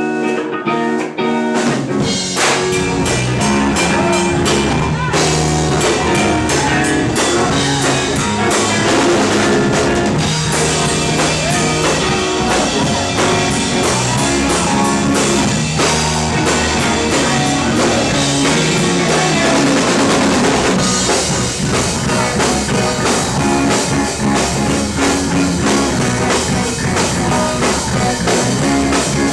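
A rock band playing live: a drum kit and guitars, with the whole band coming in fully about two seconds in.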